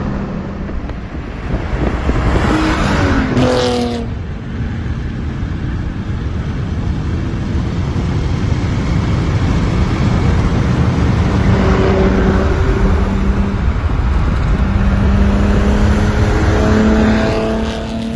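1990 Nissan 300ZX's non-turbo VG30DE V6 on a custom aftermarket exhaust, driving under power. The exhaust note drops sharply in pitch about three to four seconds in, then carries on as a steady drone with the pitch climbing again later.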